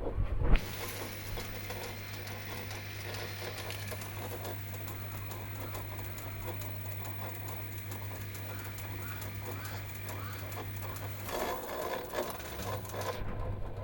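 Samsung washing machine running with a steady motor hum and a scratchy grinding from the motor rotor. A sharp knock comes about half a second in, and the grinding grows louder and rougher near the end.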